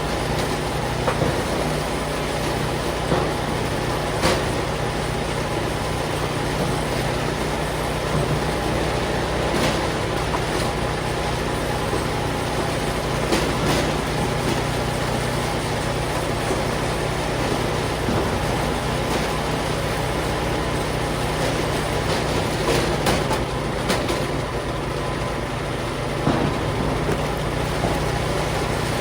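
Allwood Musclewood log splitter's engine running steadily, with a few scattered sharp knocks and cracks from the logs being split.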